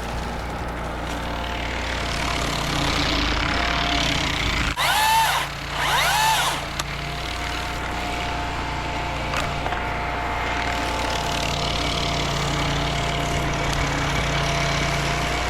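Chainsaw engine idling steadily, revved twice in quick succession about five seconds in.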